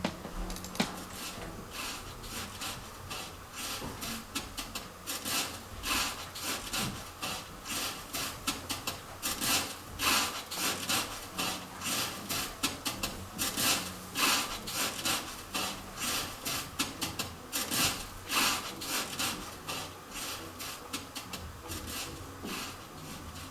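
Rapid, repeated rubbing or scraping strokes on a hard surface, coming in runs that swell louder in the middle and thin out near the end.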